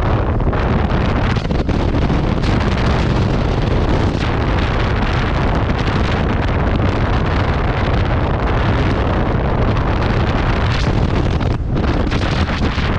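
Wind buffeting a helmet-mounted camera's microphone on a moving motorcycle: a loud, steady rush, heaviest in the low end, that covers any engine sound.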